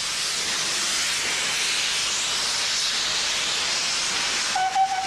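Steam locomotive letting off steam: a loud, steady hiss. Near the end a brief steady tone sounds.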